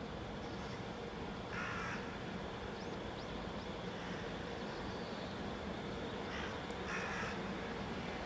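A bird calling three times: once about a second and a half in, then twice close together near the end, over a steady low hum.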